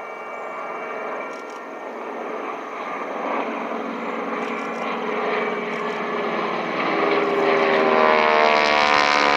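Propeller-driven piston-engine warbirds flying a low pass: a steady engine drone that grows louder toward the end, the engine note bending in pitch as the planes pass close by.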